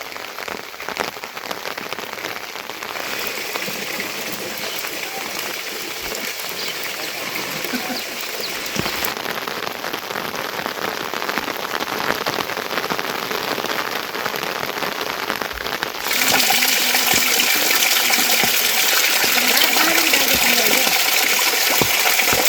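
Rain falling steadily in a dense patter of drops, stepping up to a louder, heavier sound about two-thirds of the way through.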